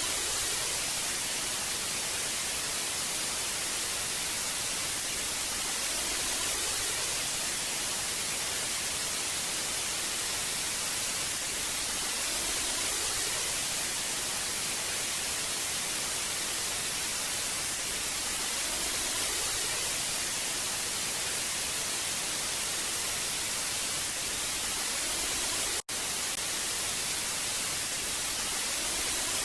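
Analogue television static: a steady, even hiss, strongest in the treble, with a split-second dropout near the end.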